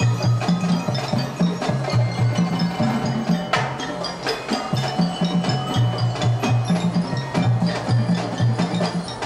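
Elementary school marching band playing: a steady beat of short struck notes over repeated low bass notes.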